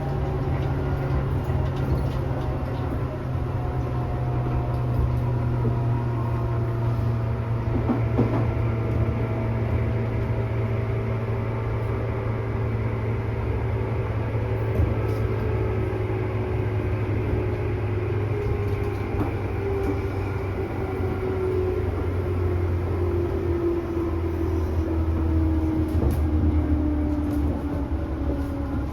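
Tobu 10000 series commuter train running, heard inside a motor car: a steady low rumble of wheels on rail, with motor and gear whine slowly falling in pitch and a few faint clicks near the end.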